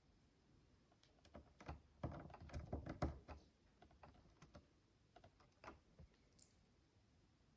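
Faint clicks and rattles of tiny plastic micro building bricks being handled and pressed together. A dense cluster of clicks comes about two to three seconds in, then scattered single clicks.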